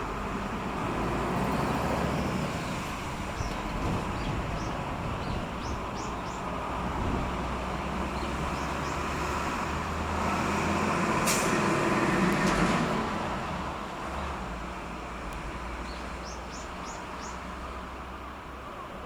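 Steady low engine rumble of passing heavy road traffic. It swells about ten seconds in, when a short, sharp air hiss like a truck or bus air brake sounds. Brief high chirps come a few times.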